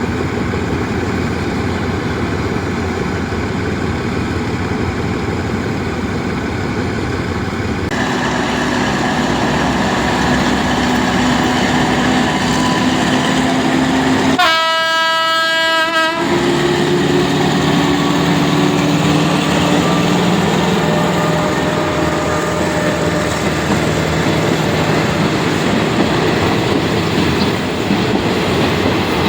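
Passenger train running on the rails with a steady rumble and clatter that grows louder about a quarter of the way in. About halfway through, the train horn sounds one blast of nearly two seconds.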